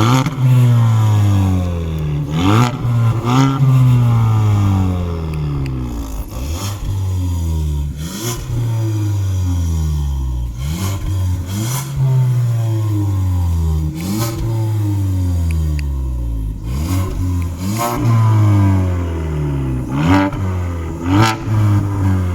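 Ford Focus 1.5 EcoBoost engine revved repeatedly through a resonated exhaust with an active valve end section: about a dozen quick rises in pitch, each falling slowly back toward idle, with a sharp crack near the top of several revs.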